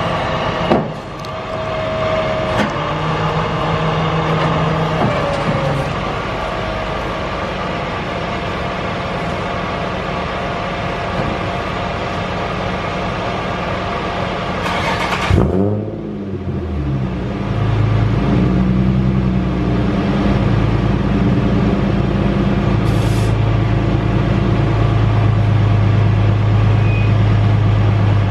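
Vehicle engine running steadily. About fifteen seconds in the sound breaks off sharply, then a deeper, steady engine drone carries on and grows a little louder.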